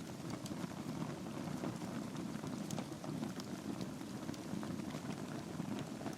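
Logs burning in a fireplace: scattered sharp crackles and pops over a steady low rumble of the flames.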